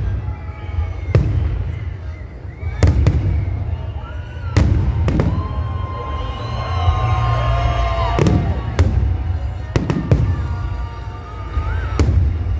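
Fireworks salute: shells going off in sharp bangs every one to two seconds, about nine in all, over the chatter of a crowd.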